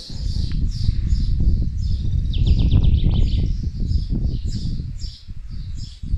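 Small birds chirping over and over, about three chirps a second, with a short rapid trill about two and a half seconds in. Under them runs a heavy low rumble that is louder than the birds and eases off near the end.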